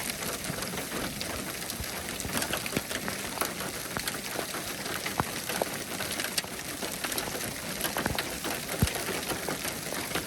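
Steady rain falling, with many separate drops clicking sharply.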